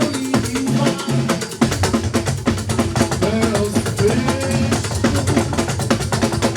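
Live church hymn music with a steady, busy drum and percussion beat under a melody line.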